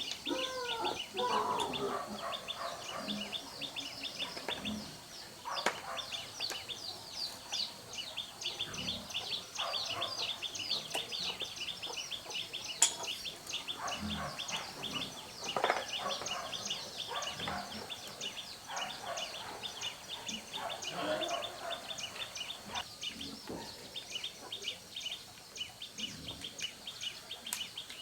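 Birds chirping in a fast, continuous twitter. Chicken calls are heard, with a crow fading out in the first second or two, and a few sharp knocks come at intervals.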